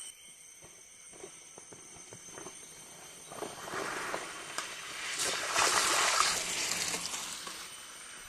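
Water splashing, swelling over a few seconds, loudest about three-quarters of the way through, then easing off.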